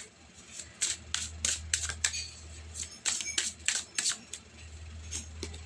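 Tarot cards being handled and drawn from the deck: an irregular run of sharp card clicks and snaps, over a faint low hum.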